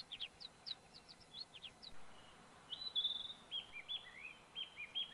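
Faint birdsong: a quick run of short high chirps, then from about three seconds in a held note followed by a string of short looping whistles repeated several times.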